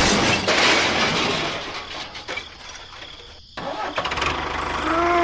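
A small engine starting about three and a half seconds in, then running with an even low chug. Before it, a rush of noise fades away.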